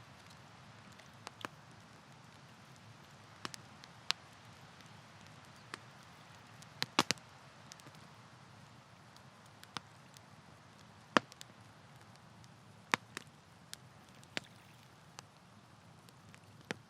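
Wood campfire crackling: irregular sharp pops, with a quick cluster about seven seconds in and the loudest single pop about eleven seconds in, over a soft steady hiss.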